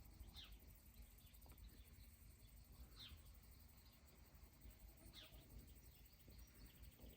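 Near silence outdoors, with a small bird calling faintly: short falling chirps, about one every two seconds.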